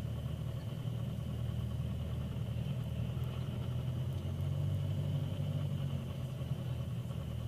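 Piper PA-28's piston engine running steadily at low power as the aircraft rolls off the runway after landing, heard from inside the cockpit, with a slight swell in engine sound around the middle and a steady high whine throughout.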